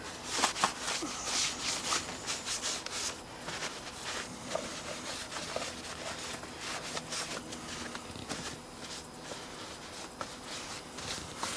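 A rag wiping and rubbing over a small outboard kicker motor, with irregular scrapes and light knocks as it is handled.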